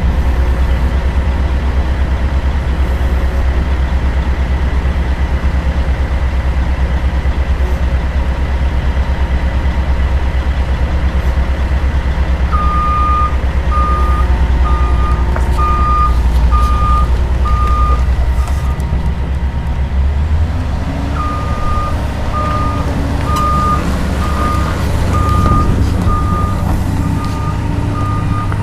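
Komatsu PC200 excavator's diesel engine running steadily, with its travel alarm beeping a little more than once a second in two runs from about halfway through. The engine note steps up shortly before the second run of beeps.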